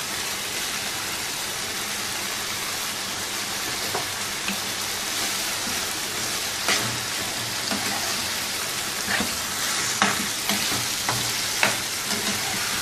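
Spiced chicken pieces sizzling in oil in a non-stick frying pan, the yogurt's water cooked off so the masala is now frying in its own oil. A silicone spatula stirs and scrapes through it, with irregular clicks and scrapes against the pan from about four seconds in as green capsicum strips are stirred in.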